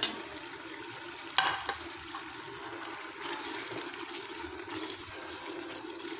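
Curry masala sizzling in hot oil in a metal pot as it is fried and stirred with a spatula, a steady sizzle with the spatula scraping through it. A couple of sharp knocks, the loudest about a second and a half in.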